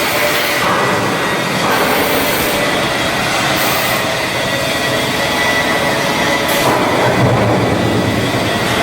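Continuous loud shipyard machinery and metalworking noise, with a thin steady high whine running through it and a few brief louder surges.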